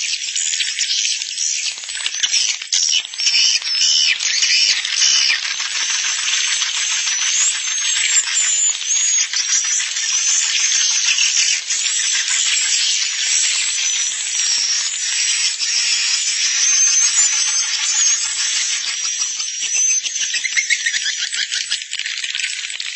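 Recorded call of a dense colony of edible-nest swiftlets: continuous fast rattling twitters and chatter, with short thin whistles sliding up and down above them. It is the roosting call ('suara inap') played in swiftlet houses to lure birds in to stay and nest.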